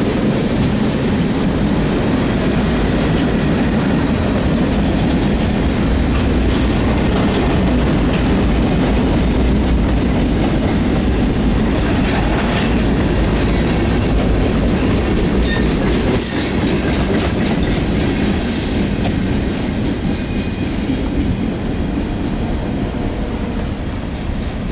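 CSX freight train's covered hoppers and tank cars rolling past, steel wheels clacking over the rail joints over a steady rumble. A few brief high wheel squeals come around the middle, and the noise fades over the last several seconds as the train moves away.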